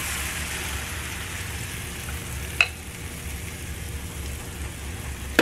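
Pancake batter sizzling as it hits a small oiled frying pan, a steady hiss that eases slightly over the seconds. One short click a little past halfway.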